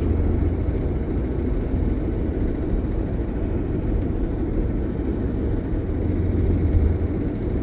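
Steady low rumble of a vehicle under way: engine and road noise while driving along a snow-covered road, holding even throughout.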